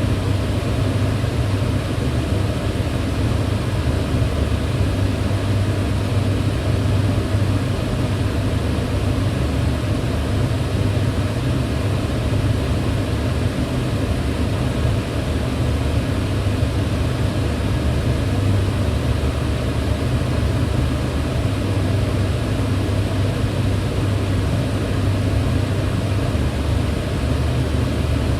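Kitchen range hood fan running steadily: an even, low whir with a faint hum.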